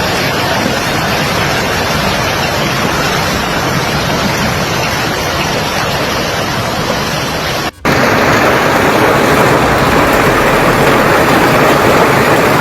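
Heavy hailstorm: hail and rain pelting down as a dense, steady noise, breaking off abruptly about eight seconds in and resuming slightly louder.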